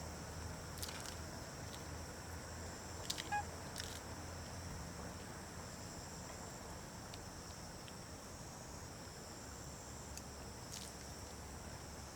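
A steady, high-pitched chorus of insects buzzing in two even bands, with a few faint clicks and one brief short chirp about three seconds in.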